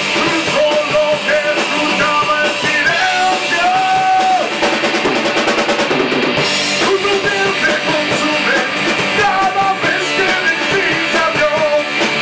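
Rock band playing: a driving drum kit with electric guitar and a singing voice.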